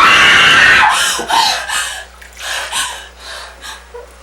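A young woman lets out a sudden, very loud scream that lasts about a second, distorting the recording. It is followed by a few shorter cries and gasps that fade away.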